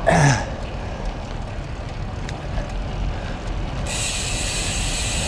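Steady wind and road noise of a bicycle being ridden, heard on the rider's camera microphone, with a steady high hiss coming in suddenly about four seconds in.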